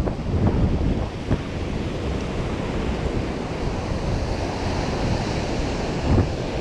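Ocean surf washing up on the beach, with strong wind buffeting the microphone.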